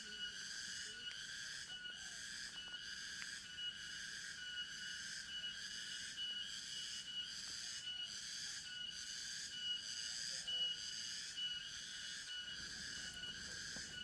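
Forest insects droning in a steady, high-pitched chorus that pulses rhythmically.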